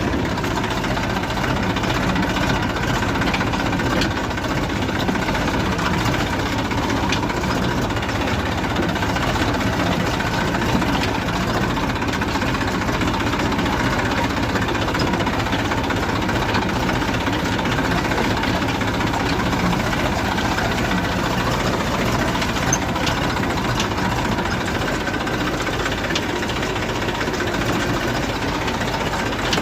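Diesel tractor engine running steadily at an even, unchanging speed.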